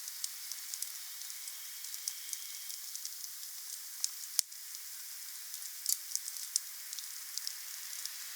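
Wood fire burning: a steady hiss with frequent sharp pops and crackles, the loudest snap about four and a half seconds in.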